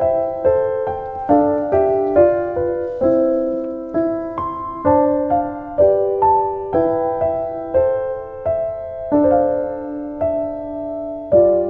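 Background piano music: a gentle melody of single struck notes and chords, about two notes a second.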